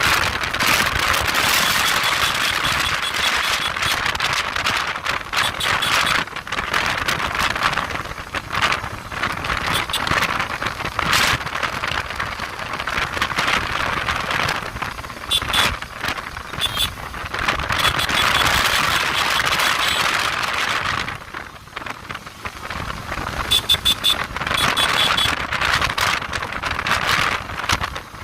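Motorcycle under way at speed: a steady rush of wind over the microphone mixed with engine and road noise, with buffeting knocks. The noise drops for a moment about two-thirds of the way through, then builds again.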